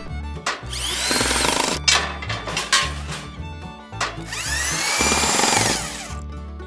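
A power tool whines up to speed and runs for about a second, twice, over background music with a steady beat.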